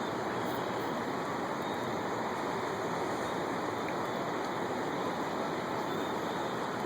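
Fast-flowing floodwater of the high Fox River rushing, a steady even noise without breaks.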